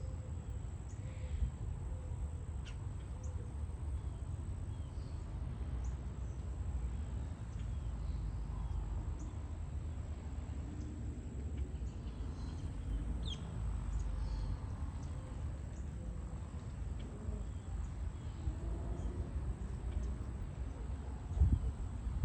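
Outdoor background with a low, steady rumble and faint, scattered bird chirps, and a single thump near the end.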